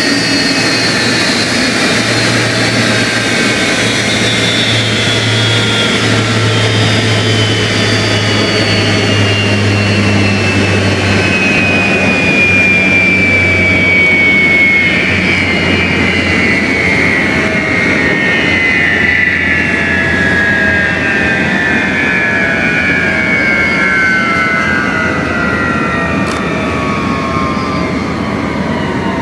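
Single F135 turbofan of an F-35A Lightning II jet fighter running on the ground, its whine falling slowly in pitch over a steady jet roar as the engine winds down.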